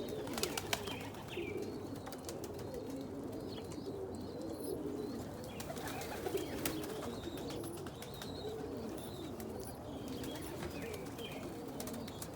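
A loft full of domestic pigeons cooing continuously, overlapping low warbling calls. There are a few sharp taps near the start and again around six seconds in, and some faint high chirps.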